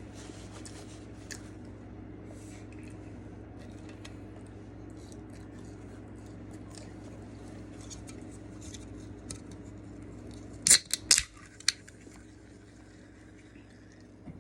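Quiet eating and handling of fast-food packaging: small clicks and rustles over a steady low hum, with a brief burst of loud crinkling and clatter about eleven seconds in.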